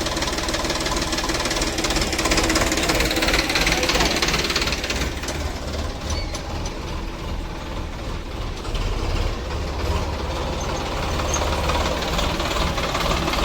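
Diesel engine of heavy machinery, such as a JCB backhoe or a tractor, running steadily under a little load.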